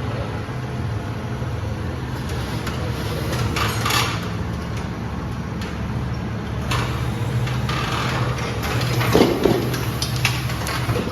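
Tractor engine idling steadily, with a few short scrapes and knocks about four, seven and nine seconds in.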